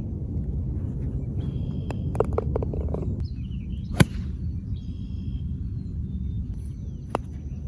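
A golf club striking a ball: one sharp crack about four seconds in, the loudest sound, over birds chirping and a steady low outdoor rumble. A fainter click comes near the end.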